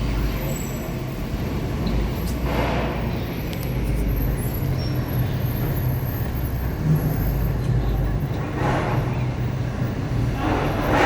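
Bus diesel engine running with a steady low hum. Three short bursts of hissing noise come over it, the first a couple of seconds in, the second past the middle and the third near the end.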